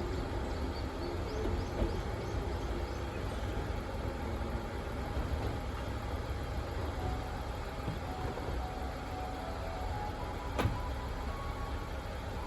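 Electric train at a station platform: a steady low rumble with faint whining tones over it, and one sharp click about ten and a half seconds in.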